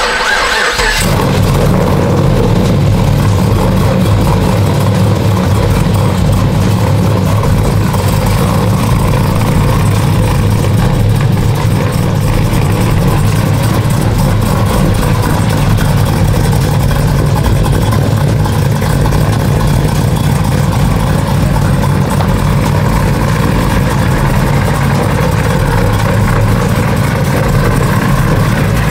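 Cammed 2015 Chevrolet Camaro SS 6.2-litre V8 with a TSP stage 4 camshaft, loud through its exhaust. It comes in about a second in and then idles steadily with the choppy lope of the big cam, the "bump" that shakes the car.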